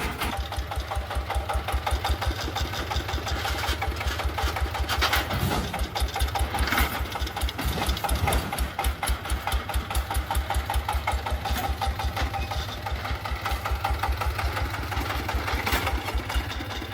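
An engine running steadily with a rapid, even low pulse.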